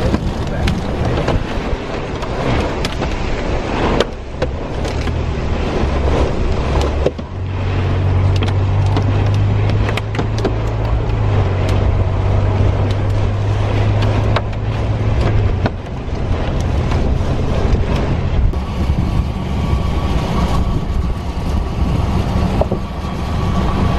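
Car driving at speed, heard from inside the cabin: a low engine and tyre drone that shifts in pitch, under loud rushing wind noise with many small clicks and taps.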